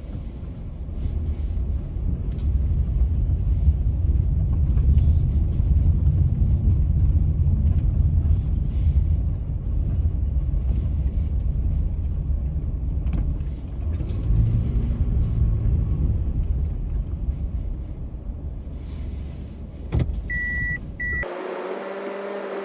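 Car driving, a steady low rumble of engine and road noise. Near the end there is a short high electronic beep, and the rumble cuts off abruptly into music.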